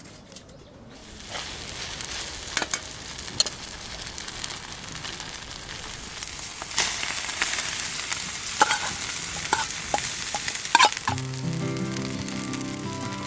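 Food sizzling and frying in a pan, with sharp clicks of a utensil against the pan as it is stirred. Background music comes in near the end.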